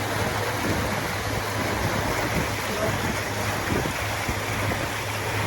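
Motorboat under way on a lake: a steady low engine hum under a constant rush of water and wind.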